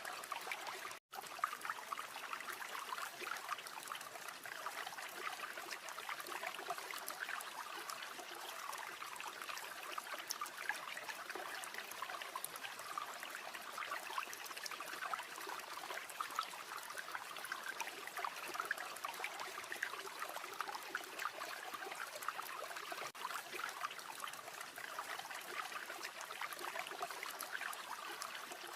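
River water flowing steadily, an even rushing and trickling with fine splashy detail. The sound cuts out for a split second about a second in.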